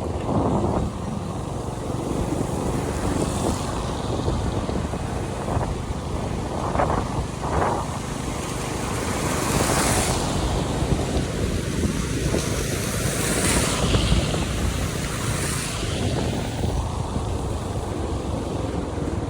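Road traffic on a wet avenue: a steady rush of car and tyre noise on rain-soaked asphalt, with the hiss of passing vehicles swelling a few times around the middle.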